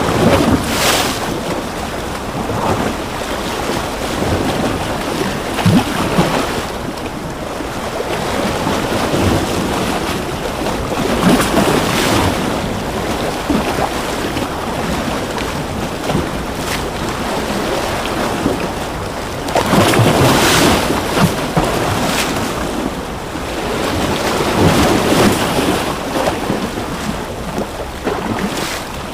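Ocean surf: waves swelling and breaking every several seconds over a continuous wash of water, with the strongest breaks about a third of the way in, two-thirds in, and again a little later.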